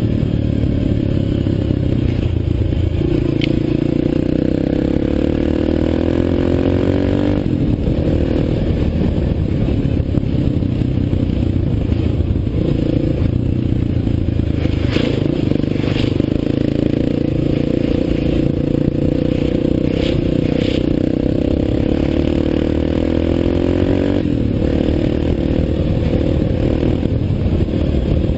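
Dirt bike engine running under way, its pitch climbing and then dropping suddenly twice, about a quarter of the way in and again near the end. A few short sharp clatters come in the middle.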